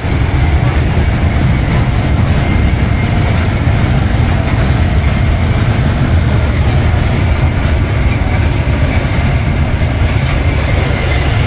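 Steady, loud rumble and rail noise of a passenger train running at speed, heard from inside a carriage.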